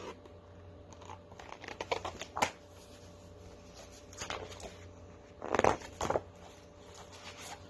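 Paper rustling and light handling taps from a picture book's pages being handled and turned, in a few short scattered bursts, the loudest cluster between five and six seconds in.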